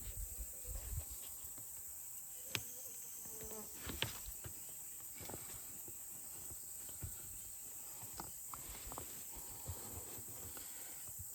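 Faint scattered clicks and knocks, the sharpest about two and a half and four seconds in, over a steady high-pitched hiss.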